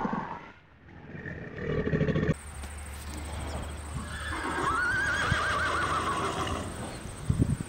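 A short low grunting sound, then a horse whinnies: one long, quavering call lasting about two seconds, followed by a couple of short low snorts or thuds near the end.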